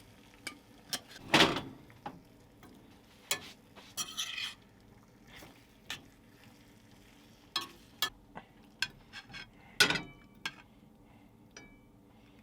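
A utensil stirring and tossing pasta in cream sauce in a pan, with scattered clinks and scrapes against the pan and a faint sizzle. The loudest knocks come about a second and a half in and again near ten seconds.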